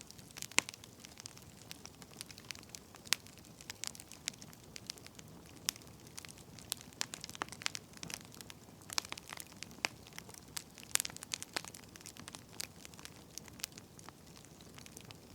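Wood fire crackling: irregular sharp pops and snaps of burning firewood over a low, steady hiss.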